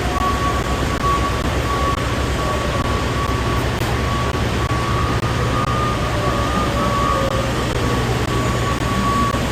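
Semi-truck's diesel engine idling: a steady low rumble with a thin, constant whine above it.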